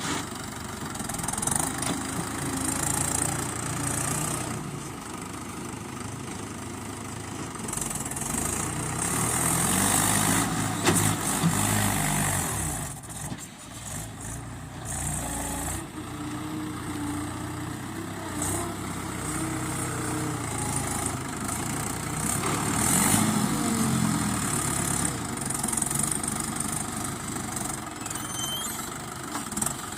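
Diesel tractor engines running and changing speed, revving up louder about a third of the way in and again past two-thirds.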